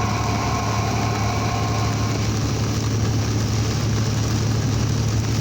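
Steady engine drone and road noise inside a moving vehicle's cab, with heavy rain and wind washing over it in a constant hiss.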